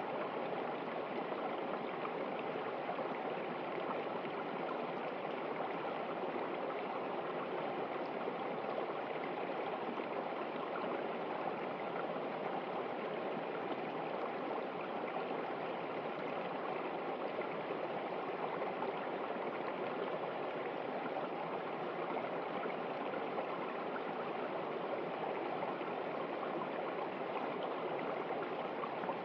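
A river running steadily, an even rushing of flowing water with no breaks.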